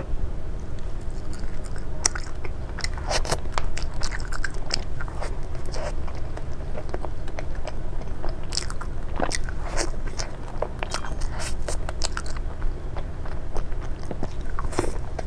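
Close-miked eating: a person biting and chewing food, with many short, crisp crunching clicks and mouth sounds at an irregular pace, over a steady low hum.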